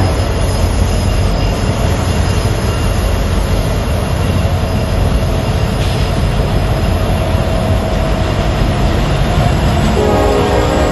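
Trains running past, a loud steady rumble of rolling stock on the rails. Near the end a train horn sounds.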